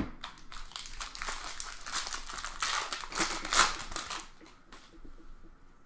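Foil trading-card pack wrapper being torn open and crinkled, with a sharp click at the start and a dense rustle that fades about four seconds in.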